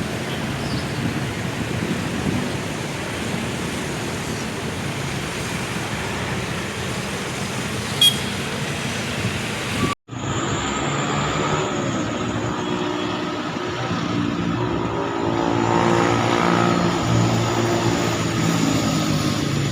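Road traffic of cars and motorcycles passing in a steady stream. Just after a short sharp sound, the noise cuts out abruptly about halfway through. It resumes with vehicle engines heard more closely, their pitch rising and falling and loudest a few seconds before the end.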